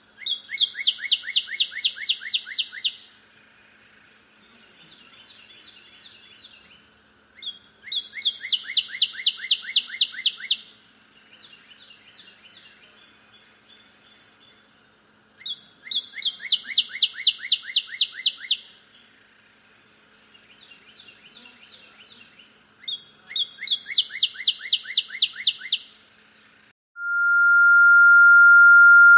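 A songbird singing four loud songs, each a rapid trill of about five notes a second lasting two to three seconds, with softer chattering calls between them. Near the end a steady, high pure ringing tone starts abruptly and holds.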